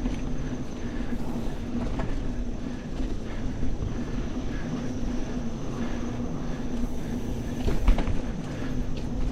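Mountain bike rolling along a sandy, hard-packed dirt singletrack: a steady hum of the knobby tires with small clicks and rattles from the bike, and a sharper knock about eight seconds in.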